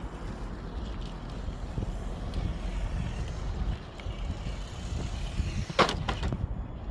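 Steady low rumble of distant highway traffic. About six seconds in, a sharp click, followed closely by a fainter one.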